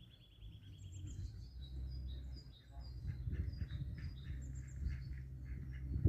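Small birds singing and chirping, with a rapid high trill in the first second and many short overlapping chirps after it, over a steady low rumble.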